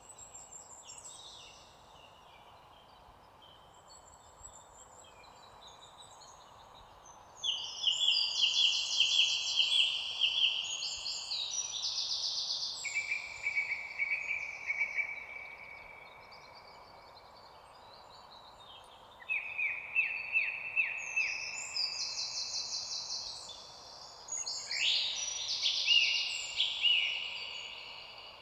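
Songbirds singing in rapid, trilled phrases, in three loud bouts about a quarter of the way in, two-thirds in and near the end, with softer chirps between, over a steady background hiss.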